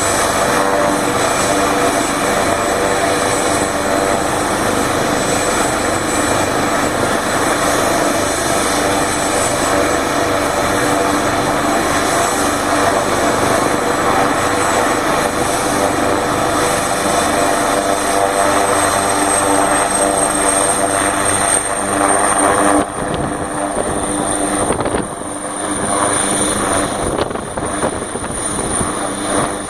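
Emergency medical helicopter running loud on the helipad, its rotor and turbine noise steady. A high turbine whine climbs slowly in pitch from a little past halfway, as power comes up.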